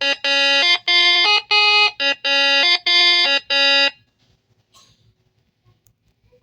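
A buzzy multi-tone horn sounding a short tune of about seven blasts that step up and down in pitch, lasting about four seconds.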